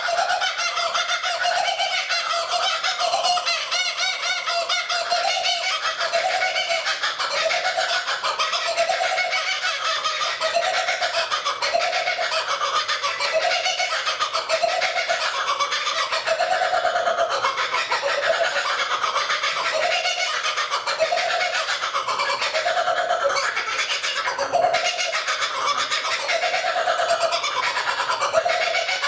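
Laughing kookaburras calling: a long rolling laugh of repeated notes, about one a second, with busy overlapping chattering on top.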